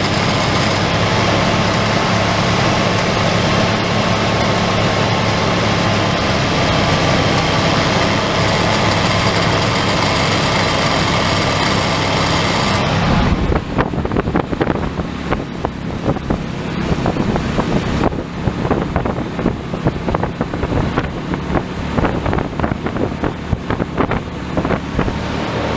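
1994 Chevy Silverado's 5.7 L V8 running at raised revs, held open by a pedal clamp during a Seafoam treatment. About halfway through, the sound abruptly turns lower and uneven, with irregular pulses.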